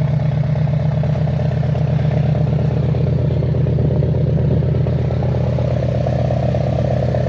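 Porsche 718 Boxster with a Stage 2 tune and full stainless-steel exhaust, engine running steadily at idle.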